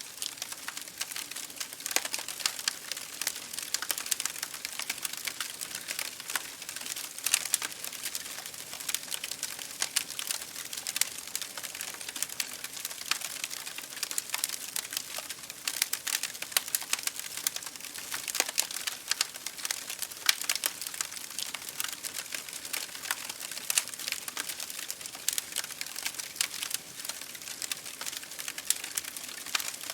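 Wood fire in a fireplace crackling and popping with many irregular snaps, over a steady patter of rain on a window pane.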